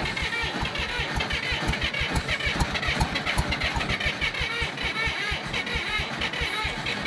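Engine of an old John Deere bulldozer running just after being jump-started, with a fast, steady chug of firing pulses.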